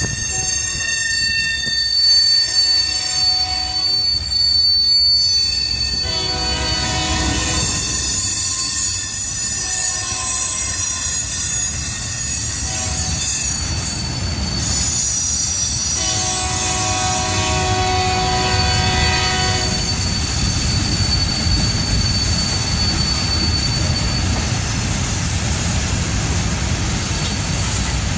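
Freight cars rolling past over a crossing: a steady rumble of wheels on rail, with long high-pitched squeals from the wheels coming and going every few seconds.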